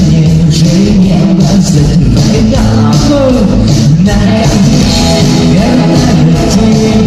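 A rock band with a symphony orchestra playing a song live. The music is loud and dense, with a voice singing over it.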